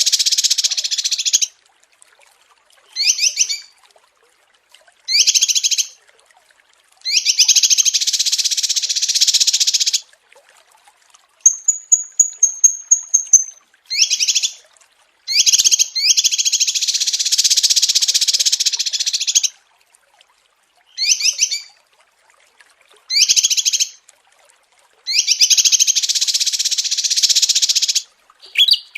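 Small songbirds singing rapid, high-pitched trills, as played in a bird-song training recording (masteran). The song comes in dense bursts of under a second to about three seconds, separated by clean silence. Around the middle, a thin run of quick high notes stands apart from the rest.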